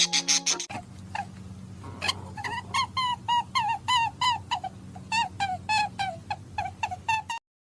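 A small animal giving a rapid run of short, high-pitched calls, about two or three a second, over a low steady hum. The calls cut off abruptly near the end.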